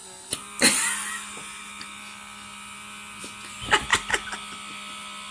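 Comedo pore-vacuum's small electric suction motor humming steadily, its hum stepping up slightly in pitch about a third of a second in. Sharp clicks come near the start and again in a quick cluster a little before the four-second mark.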